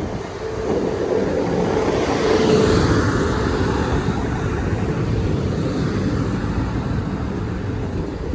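South Western Railway Class 450 electric multiple unit train running slowly over the level crossing as it pulls into the station. The noise grows louder over the first couple of seconds, then holds steady, with a short knock right at the end.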